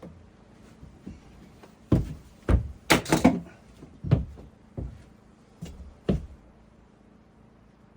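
A series of irregular knocks and thuds, about eight over four seconds, with the loudest cluster near the middle, typical of wooden parts being knocked or a door being worked.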